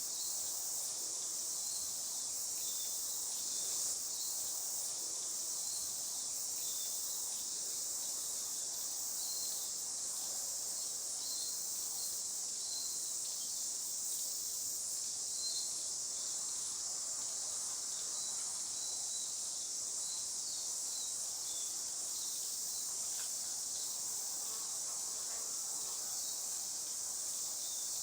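Steady high-pitched insect chorus in native bush, with short faint chirps scattered throughout.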